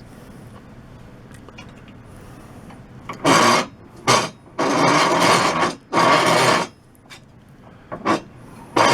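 Hand file rasping across a walnut block as it is shaped: after about three seconds of quiet, a run of scraping strokes, one lasting over a second and the rest shorter.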